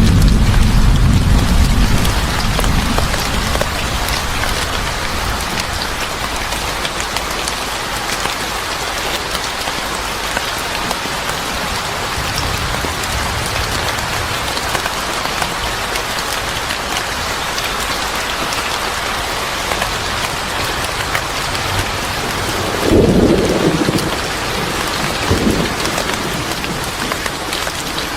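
Steady heavy rain falling, with a low rumble of thunder that fades over the first two or three seconds and a short, louder rumble about 23 seconds in.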